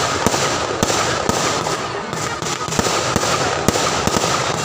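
Aerial fireworks going off in rapid, irregular succession: many sharp bangs, several a second, over a continuous dense crackle.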